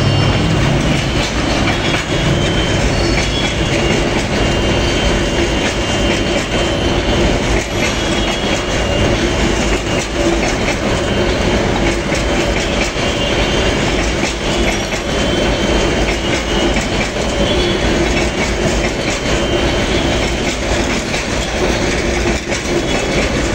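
Train passing close by, its wheels clattering steadily over the rails.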